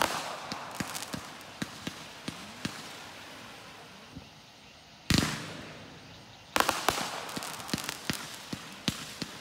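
Aerial fireworks going off: a bang at the start followed by scattered crackling pops, another loud bang about five seconds in, and a third about a second and a half later that sets off a quick run of sharp cracks.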